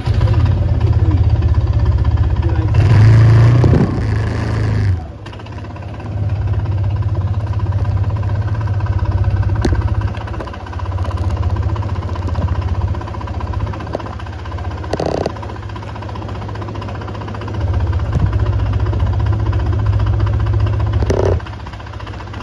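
Kymco KRV 180 belt-drive scooter engine running on a ride, its note swelling as the throttle is opened and easing off several times. A rush of wind-like noise comes about three seconds in.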